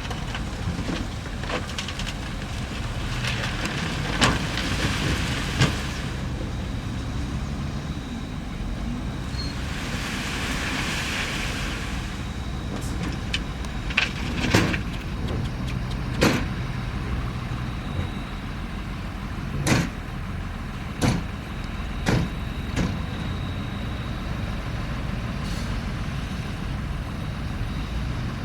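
Heavy diesel earthmoving machinery running steadily with a low rumble. About eight sharp knocks are spread through it, the loudest near the middle, and a brief hiss comes about ten seconds in.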